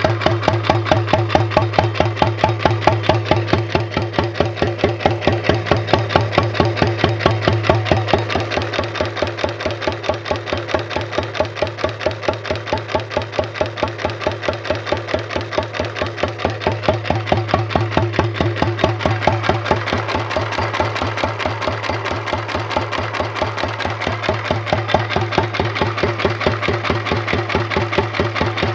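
A 1929 Economy XK 3 1/2 hp single-cylinder, throttle-governed flywheel engine running with an even, rapid exhaust beat, firing steadily rather than hitting and missing. The level swells and eases slightly a couple of times.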